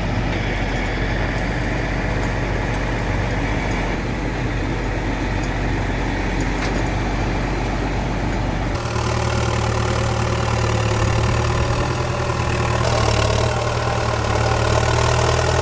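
Heavy machinery's engine running steadily. About nine seconds in, the sound switches abruptly to another engine with a stronger low hum.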